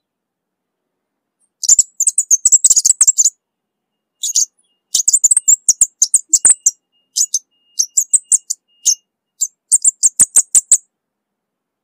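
Orange-bellied flowerpecker calling: rapid runs of very high, thin, ticking chirps in several bursts, starting about two seconds in with short pauses between runs.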